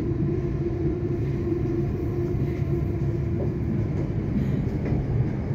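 Cabin noise inside a Melbourne Metro electric suburban train running between stations: a steady low rumble of the carriage on the track, with a steady hum over it that fades out about three and a half seconds in.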